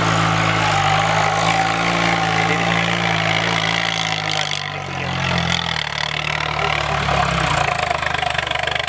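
Swaraj 855 tractor's three-cylinder diesel engine running steadily, its note changing about five seconds in to a rougher, faster-pulsing sound.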